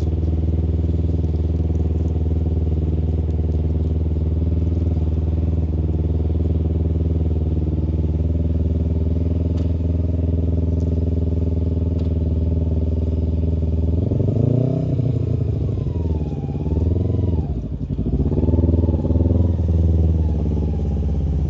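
2009 Kawasaki Ninja 250's parallel-twin engine running at a steady idle, then, about two-thirds of the way in, revving up and dropping back several times, its pitch rising and falling.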